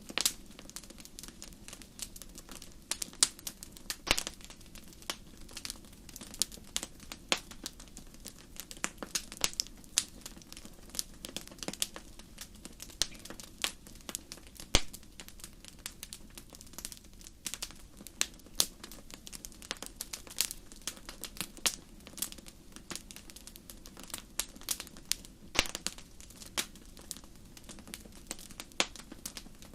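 Wood fire burning in a fireplace, crackling with irregular sharp pops and snaps over a soft steady hiss of flames.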